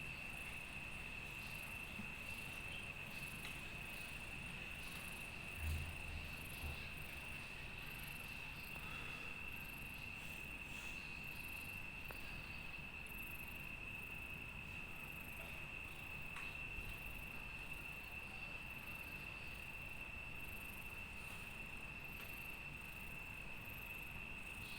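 Crickets trilling: one steady, unbroken high-pitched note, with a fainter insect call pulsing about twice a second above it. A soft low thump comes about six seconds in.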